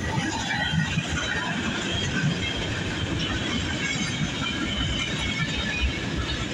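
Freight cars rolling past at close range: a steady rumble of steel wheels on the rails with rapid clicking and clattering from the wheels and car bodies.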